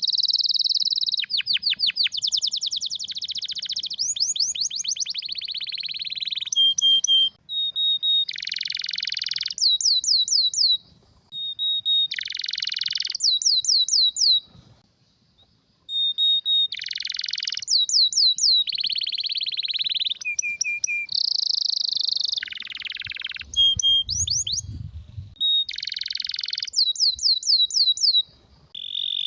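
Canary singing: a run of fast repeated trills, rolled passages and short steady whistled notes, high-pitched and broken by short pauses, with a moment of near quiet about halfway through.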